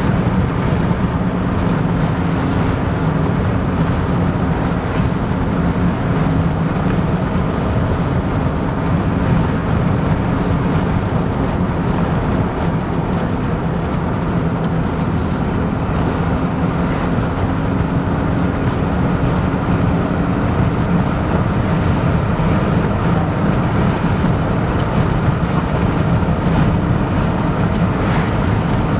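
Steady engine and road noise of a vehicle driving along at an even pace, with a constant low engine tone.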